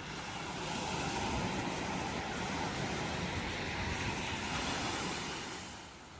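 Ocean waves: a wave swells in as a rushing wash of surf, holds for several seconds, then dies away near the end.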